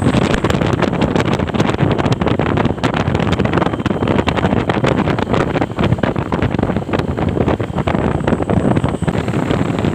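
Truck on the move: steady engine and road noise with wind buffeting the microphone, scattered with frequent short rattling clicks.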